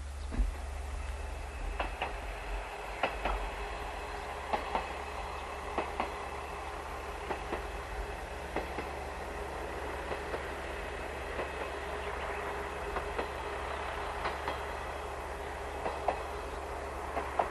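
KiHa 120 diesel railcar running along the track, its wheels clicking over rail joints about once every second or so over a steady running hum.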